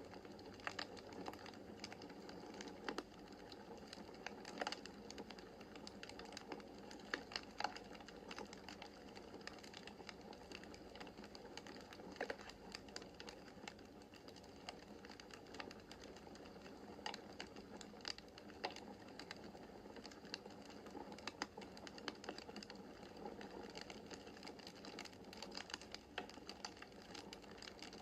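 Wood fire crackling in a fireplace: irregular sharp pops and snaps over a soft, steady hiss of the burning logs.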